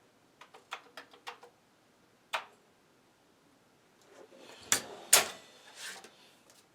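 A quick run of light clicks, a single click, then a few louder knocks and clatter, the two loudest close together: hands working at a bench with a computer and disk drive.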